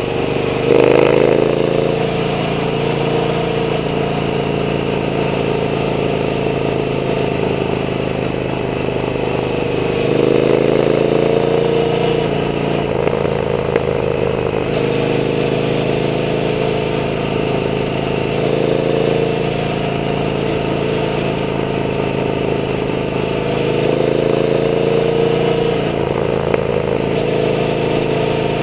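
Triumph Bonneville T120's 1200 cc parallel-twin engine through a Zard aftermarket exhaust, heard from the moving bike. It runs continuously, rising in pitch as it accelerates about a second in, around ten seconds, and twice more in the second half, with steadier cruising between.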